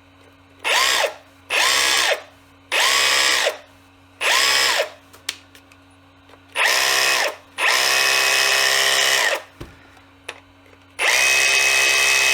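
Milwaukee M18CHPX cordless SDS hammer drill motor run in seven short trigger pulls, each spinning up quickly, holding briefly and winding down, the last few held longer. It is the drill's first run after repair, and it seems to work.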